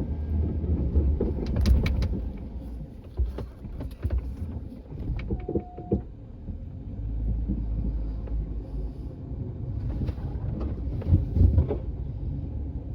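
A vehicle engine running low and steady, used to clear deep wet snow, with scattered knocks and clunks and a short tone about five and a half seconds in.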